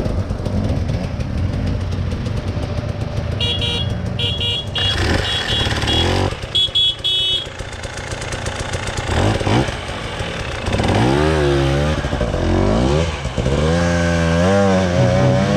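Off-road motorcycle engine running, then revved up and down repeatedly in the second half. A few brief high-pitched tones sound about a third of the way in.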